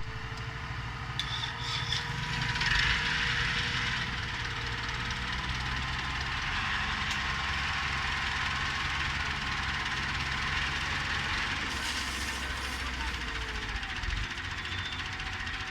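Massey Ferguson 260 tractor's diesel engine running steadily, a little louder for a second or so about three seconds in.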